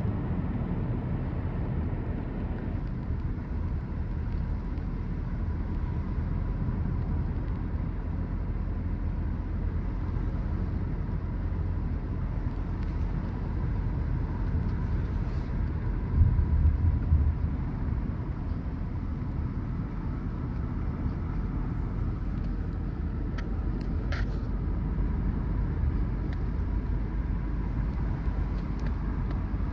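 Car driving along a road: a steady low rumble of tyres and engine, with a louder low bump about sixteen seconds in and a few sharp clicks around twenty-four seconds.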